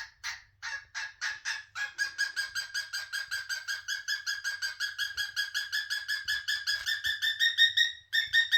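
Cockatiel making loud, repeated calls: short, sharp chirps about three a second at first, speeding up at about two seconds in to a rapid, unbroken run of several a second.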